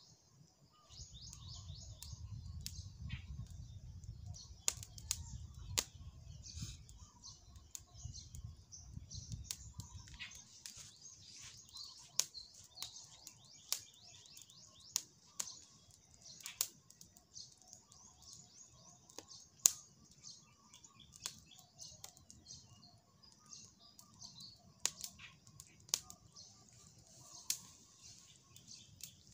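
Birds chirping continuously in a high, busy chorus, with scattered sharp clicks throughout and a low rumble during roughly the first ten seconds.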